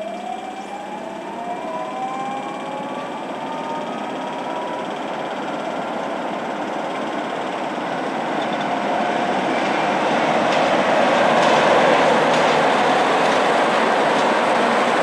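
A train pulling away and gathering speed: a whine rises in pitch over the first few seconds while the running noise builds and grows steadily louder.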